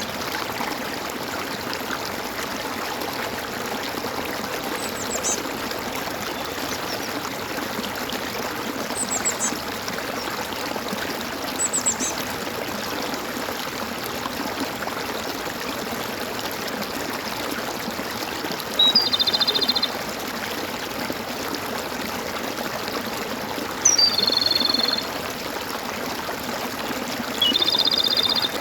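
Water gurgling steadily in a stream, with birds calling over it: a few short high chirps, then three louder buzzy calls, each about a second long, in the second half.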